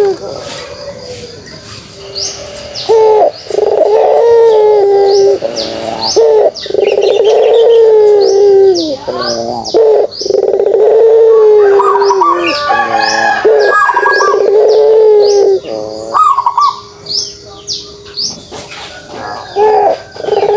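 Puter pelung, a domestic Barbary dove bred for its call, giving its long drawn-out kugeruk coo several times in a row, each call held for one to two seconds. Small birds chirp in short high notes between and over the coos.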